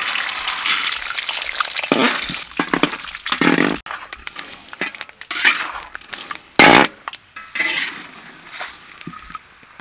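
Peanuts sizzling loudly in hot mustard oil in a metal kadai, stirred with a perforated metal ladle that scrapes and clinks against the pan. The sizzle is densest for the first few seconds and then thins out, broken by sharp ladle knocks, the loudest near the seven-second mark.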